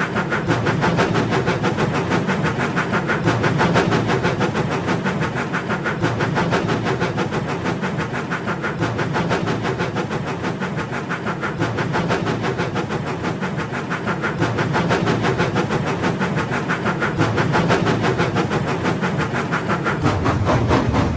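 Battery-powered toy train running along its track: a small electric motor whirring steadily, with a fast, even rattle from the wheels and the wagons it is pushing.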